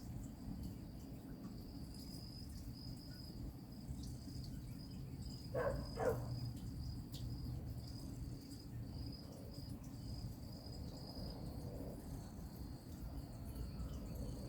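Insects chirping in a steady, high, pulsing trill over a low background rumble. About six seconds in come two short calls half a second apart, the loudest sounds.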